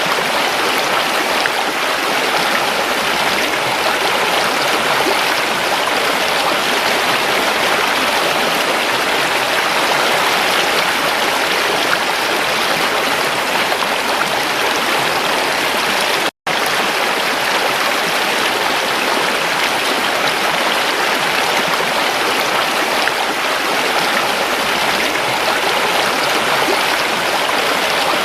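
Creek water flowing and splashing steadily over rocks. The sound drops out completely for an instant about sixteen seconds in.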